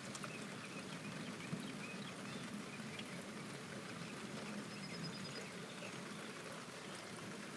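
Steady rain falling, a fairly faint even hiss.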